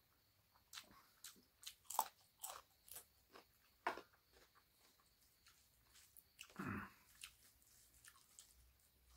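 Close-up eating sounds: crunchy bites and chewing of a fresh green chili with a mouthful of pork and rice, a run of crisp crunches loudest about two and four seconds in. A longer, falling sound about six and a half seconds in.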